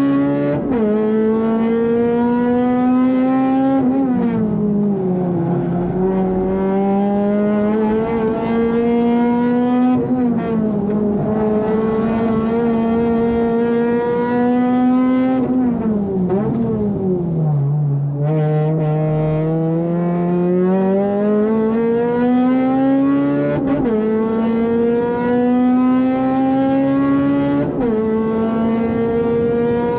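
Honda Civic FD2's 2.0-litre four-cylinder engine under race load, heard from inside the car. The revs climb steadily through each gear and drop sharply at the upshifts. Twice the pitch falls away under braking, with short blips on the downshifts.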